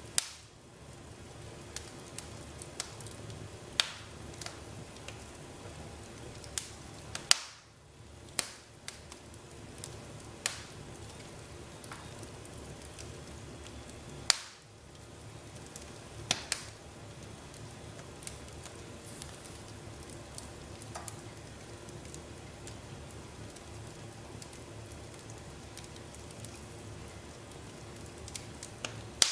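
Wood fire crackling in a fireplace: a steady hiss and low rumble of burning logs with sharp, irregular pops, the loudest about seven and fourteen seconds in.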